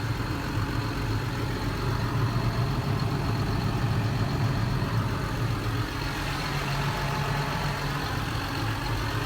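John Deere 7830 tractor's six-cylinder diesel engine running steadily at idle, its note shifting slightly about six seconds in.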